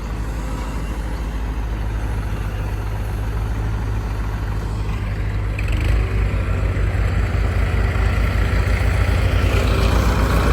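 Heavy diesel engine running with an even low throb, growing louder about six seconds in.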